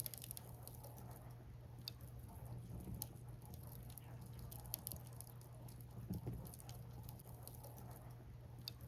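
Burning firewood crackling, with scattered sharp irregular pops and snaps over a faint steady low background.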